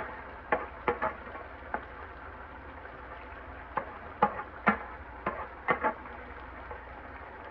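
Onion, tomato and sweet pepper frying in oil in a pan: a steady sizzle broken by sharp, irregular pops and crackles.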